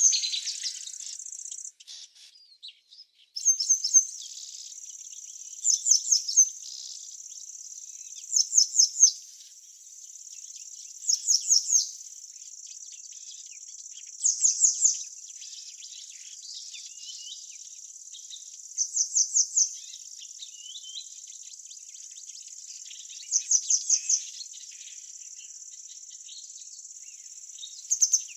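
A steady high insect trill, with a short burst of four or five quick high chirps repeated about every three seconds. The sound drops out briefly about two seconds in.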